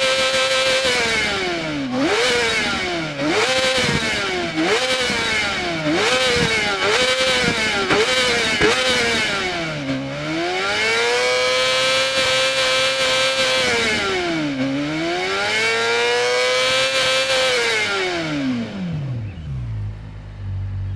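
Yamaha R6 inline-four with an Akrapovič exhaust being revved hard. The revs are held high, sag and snap back up over and over, then twice fall and climb back more slowly before dropping to idle near the end.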